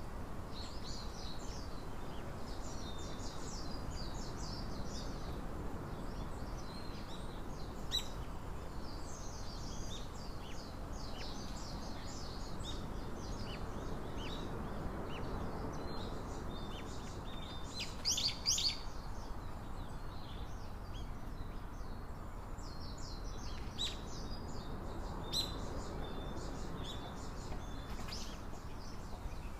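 Small wild birds chirping and twittering in many short, high calls, with a louder cluster of calls a little past halfway, over a steady low background hiss.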